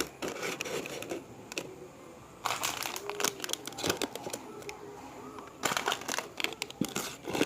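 Plastic packaging crinkling and rustling, with small clicks and taps as items are handled and set into a cardboard mini fridge; the crinkling comes loudest in two spells, about two and a half seconds in and again near six seconds.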